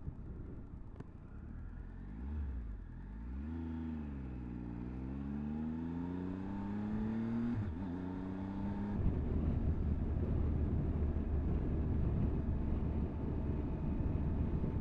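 Motorcycle engine heard from the rider's camera, pulling up through the gears: the engine note climbs steadily with brief breaks at the gear changes, then settles into a steady cruise drone mixed with wind and road noise.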